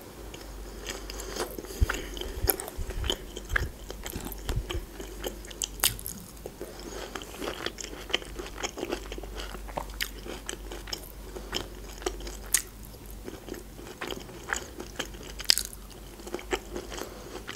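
A person chewing a mouthful of fried chicken liver: wet mouth sounds with irregular smacks and clicks.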